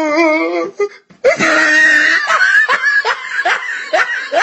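A wavering, drawn-out voice, then after a short break about a second in, loud laughter in quick repeated bursts.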